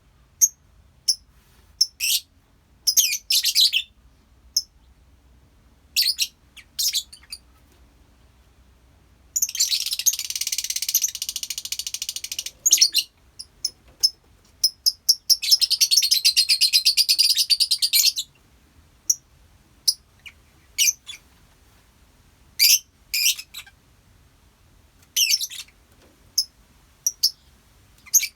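Colony of lovebirds calling: scattered short, sharp chirps, and twice a long, rapid, high chattering trill of about three seconds, the first about a third of the way in and the second just past the middle.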